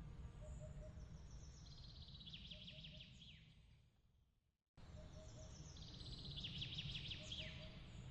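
Faint bird song, a rapid trill of chirps heard twice, over a low steady rumble. The sound fades out to silence about four and a half seconds in, then cuts back in abruptly and the same sequence starts over.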